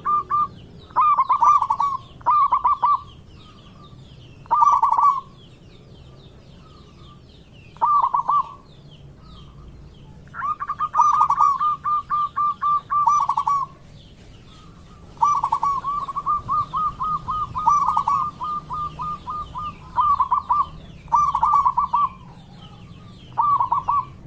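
Zebra dove (perkutut) cooing in repeated bouts of quick, rolling coos, most phrases under a second and two running on for three to four seconds. Faint high chirps of small birds sound behind them throughout.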